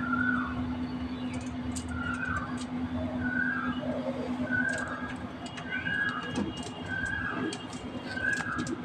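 Parrot repeating a short, falling call about once a second, with scattered small clicks and a steady low hum underneath.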